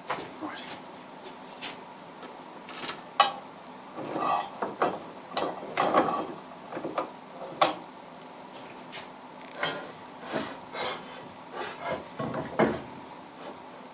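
Irregular metallic clicks, clanks and ratchet-like knocks from hands-on work at a milling machine, over a faint steady hum.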